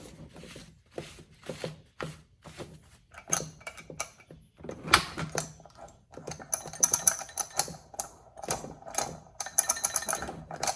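Irregular clicks, knocks and metallic clinks from a chainsaw's bar, chain and cover being handled, with short ringing clinks in the second half.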